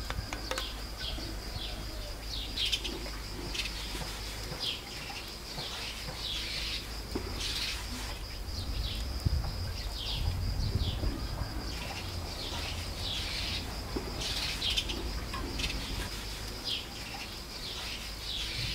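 Small birds chirping, short falling chirps repeating irregularly about once or twice a second, over a steady high-pitched tone.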